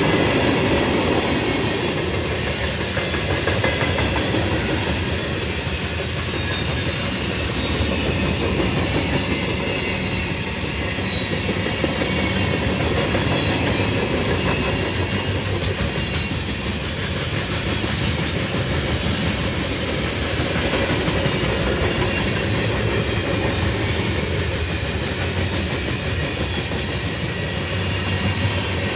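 Freight cars of a long freight train rolling past at steady speed, wheels clacking over the rail joints amid a continuous rumble.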